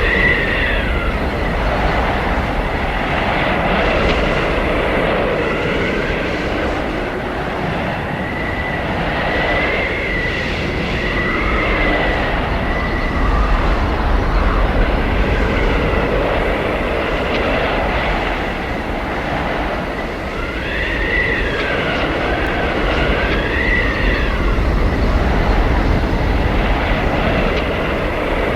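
Blizzard wind howling: a steady rush of gusting wind over a low rumble, with high whistling tones that swell and fall away every few seconds.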